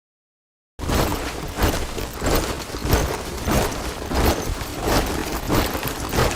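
A body of soldiers marching in step, their boots striking together in a steady tramp about every two-thirds of a second. The marching starts abruptly after a short gap of dead silence.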